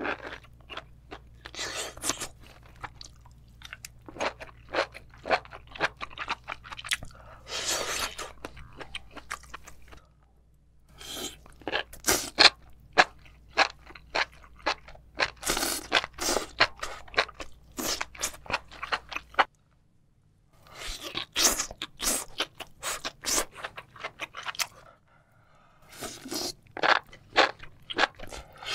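Close-miked chewing of spicy sauce-coated mushrooms, enoki among them: quick runs of crisp, wet crunches, broken by a few short pauses.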